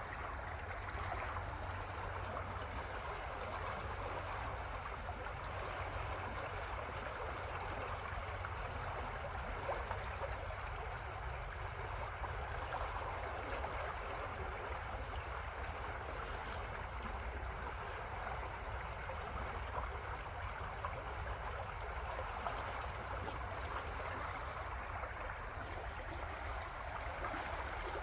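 River water flowing steadily, an even, unbroken rush of moving water.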